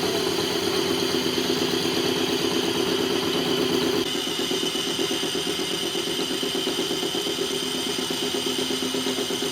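A machine motor running steadily: a hum with a fast even pulse and a steady high whine, shifting slightly about four seconds in.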